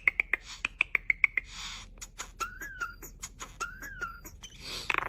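Starling making a run of sharp clicks and pops mixed with quick high chirps, a short hissy burst about a second and a half in, and two brief rising-and-falling whistles.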